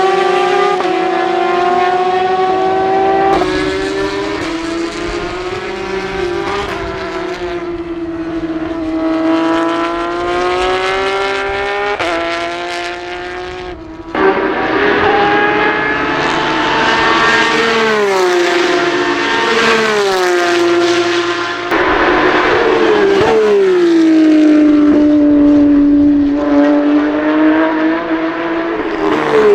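Porsche 911 race car's flat-six engine at racing speed, its pitch repeatedly climbing and then dropping sharply through gear changes, with a short break about halfway through.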